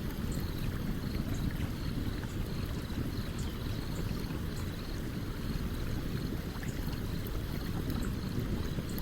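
A stream running with a steady low rush, under the scattered small crackles and pops of a campfire burning.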